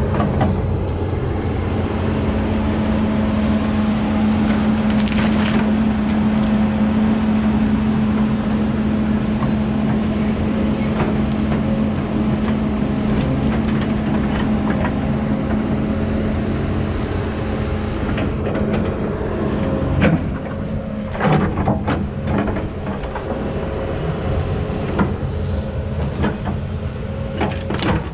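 Kobelco 210 excavator's diesel engine running steadily under load, with a series of sharp cracks and knocks in the last third.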